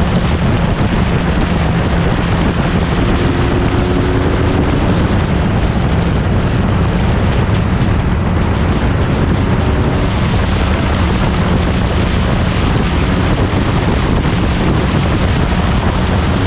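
1960s prototype racing car engine running hard at speed, a steady loud drone with wind buffeting the microphone.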